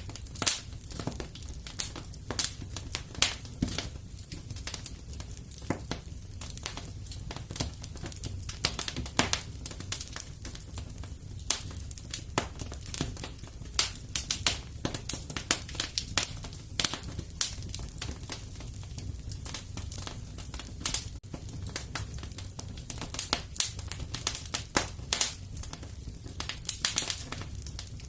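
Wood fire crackling in a fireplace: irregular sharp snaps and pops, several a second, over a low steady rumble.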